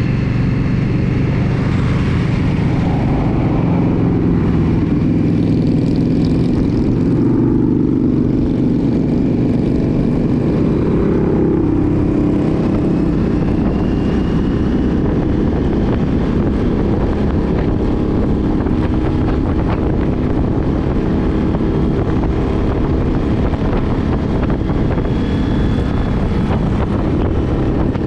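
Motorcycle engine running steadily throughout, its pitch shifting only slightly.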